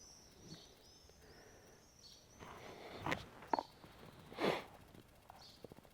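A small bird chirping over and over in short high notes, then three short noisy sounds close by, the last one, past the middle, the loudest.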